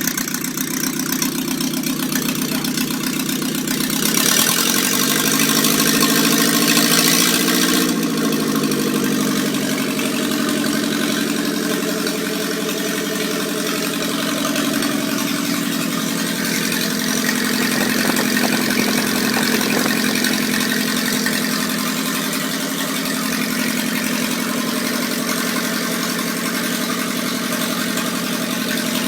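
Freshly rebuilt four-cylinder engine of a 1936 Citroën Traction Avant 7C running on its first start-up, mostly at a steady idle. About four seconds in the revs rise for a few seconds with a hiss, then drop back to idle.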